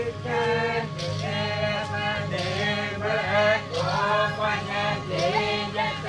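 Several voices singing a chant together, their melody wavering up and down over a steady low drone.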